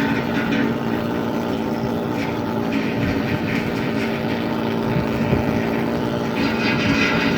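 Steady drone of a ship's machinery with a constant low hum running underneath, even in level throughout.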